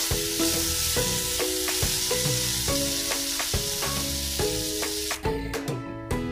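Diced potatoes sizzling in hot oil in a nonstick pan while being stirred with a wooden spatula; the sizzle cuts off about five seconds in. Background music plays throughout.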